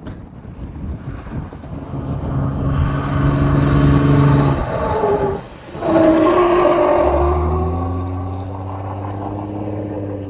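A car engine pulling under throttle. It holds a steady note, dips briefly about five and a half seconds in like a gear change, then comes back louder and settles into a steady, slowly rising drone.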